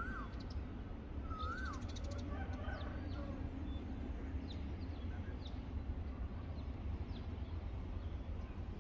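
Birds calling: a short whistled note that rises and then falls, about a second and a half in, and scattered faint high chirps, over a steady low rumble.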